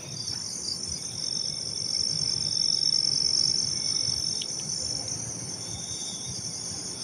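A night insect chorus, crickets or similar, chirring steadily in a dense, high-pitched drone that swells a little in the middle.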